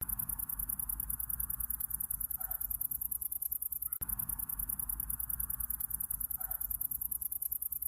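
Night-time crickets chirping in a fast, steady, high-pitched pulse over a soft hiss and low rumble. A short call sounds twice, about four seconds apart.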